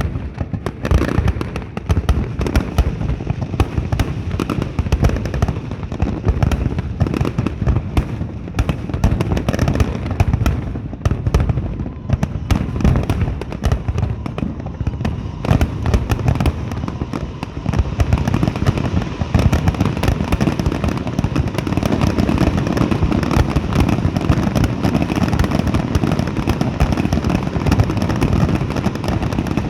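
Aerial fireworks display: shells bursting in quick succession with booms and crackle, an almost continuous barrage that grows denser and louder in the second half.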